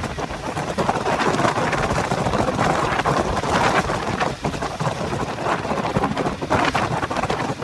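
Heavy typhoon rain and wind beating on a car, heard from the dashcam inside: a dense, loud hiss full of quick spattering hits.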